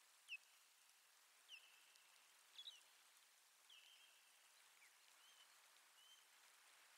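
Faint bird calls: short falling whistles, four or five in the first four seconds, over a steady outdoor hiss.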